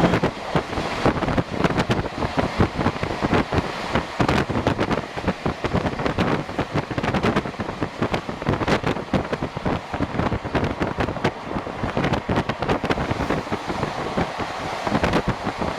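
Passenger train running at speed, heard from on board: a steady rush of wind and running noise with dense, irregular clattering from the wheels and track, and wind buffeting the microphone.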